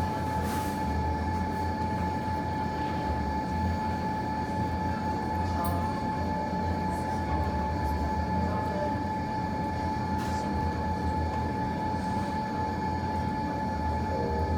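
Steady low rumble and hum with a constant high-pitched tone running through it, the sound of room ventilation or machinery. A few faint pops from the fireplace fire stand out, about half a second in, near three seconds and about ten seconds in.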